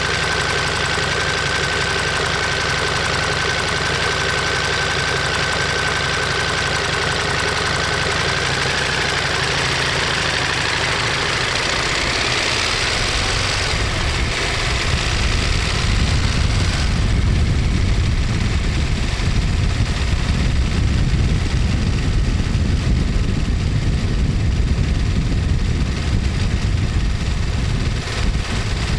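Ducati Monster 1200S's L-twin engine and exhaust running, with a thin steady high whine through the first half; about halfway in the sound grows louder and deeper as the engine works harder.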